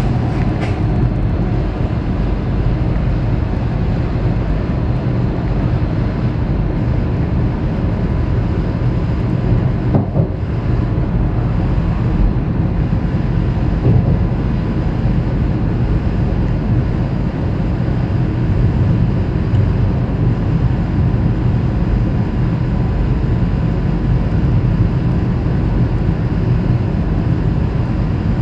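Steady loud rumble and hum of a VIRM double-decker electric train, heard from on board.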